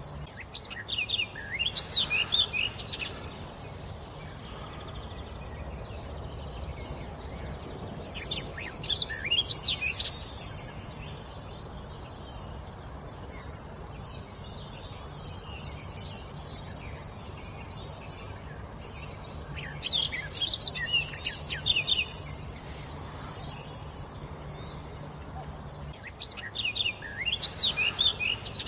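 A songbird singing four short phrases of quick, high, rising-and-falling notes, each about two seconds long, with gaps of several seconds between them, over a steady low background hum.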